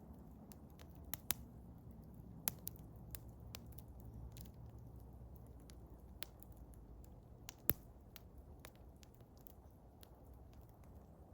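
Eastern hemlock wood fire crackling: scattered sharp pops and snaps over a low, steady rumble, with the loudest pops about a second in, about two and a half seconds in, and near eight seconds in.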